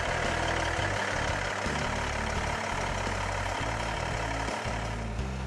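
Cummins N14 inline-six diesel of a 1992 International 8300 tractor truck running steadily.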